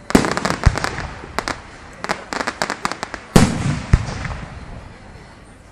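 Fireworks going off: sharp bangs, then a rapid run of crackling reports, then two loud bangs about half a second apart that die away.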